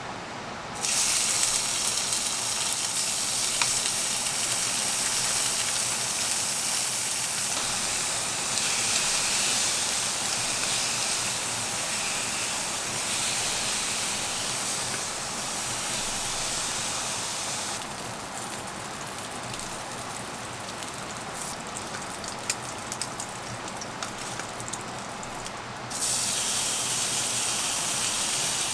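Pork belly sizzling in a hot pan, a steady hiss. Near the middle it drops to a quieter sizzle with scattered pops of fat, then comes back strong near the end.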